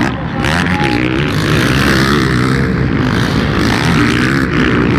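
Motocross bike engines revving, their pitch rising and falling, several at once, loud and continuous.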